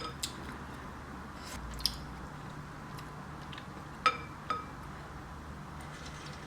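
Eating from a bowl of soup: a few small clicks, then a utensil clinks twice against the bowl about four seconds in, each clink ringing briefly.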